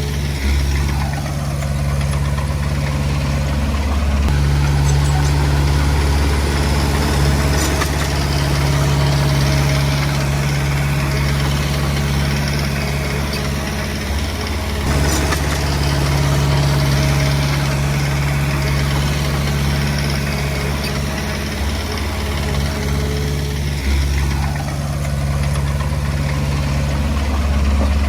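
Diesel engine of a Komatsu D20P bulldozer running steadily at working speed, with brief shifts in its note now and then.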